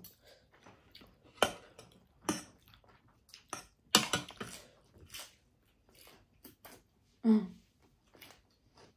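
Close-miked mukbang eating sounds: seafood being chewed and bitten, with irregular clicks of forks against plates. A brief vocal sound from one of the eaters comes about seven seconds in.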